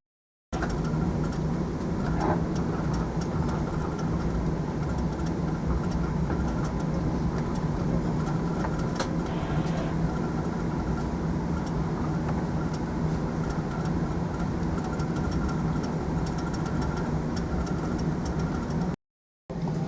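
Steady running noise inside a moving passenger train: a low rumble with a constant hum. Two short dropouts, just after the start and near the end, break it.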